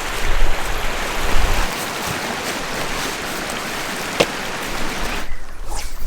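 Steady rushing of water, an even hiss without any pitch, with one sharp click about four seconds in; it cuts off suddenly about a second before the end.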